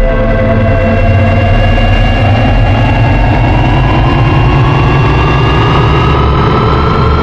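Jupiter 2 atomic engines sound effect with heavy added reverb: a loud, dense low rumble under several steady high tones, and a whine that slowly rises in pitch from about two seconds in.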